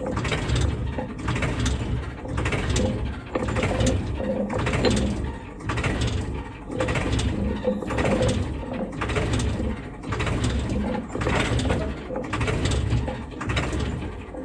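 Small battery-powered DC motor and plastic gears of a homemade toy road roller running, a gear whir with a rumble that swells and fades about once a second.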